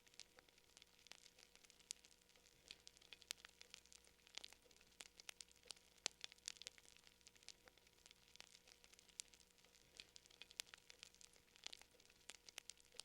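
Faint crackling of a wood fire: irregular sharp snaps and pops, several a second, over a soft hiss.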